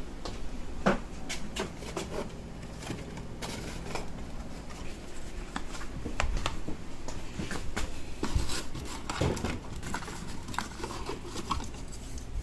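Irregular light clicks, taps and rustles of hand work with tools and parts, over a low steady background hum.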